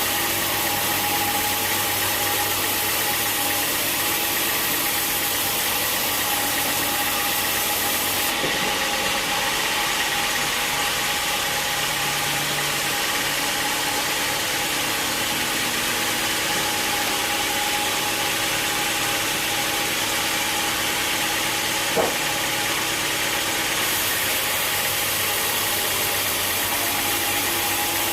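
Sawmill machinery running steadily: a constant engine-like drone with a steady hum over a hiss. Its tone changes abruptly about eight seconds in and changes back near the end, and there is one sharp click shortly before the end.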